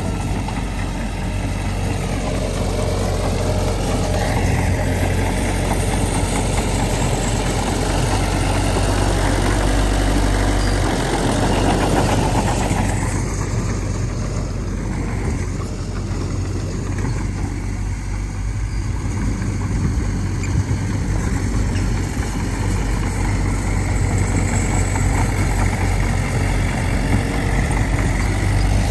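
Diesel engine of earthmoving machinery running steadily. Its note shifts about twelve seconds in.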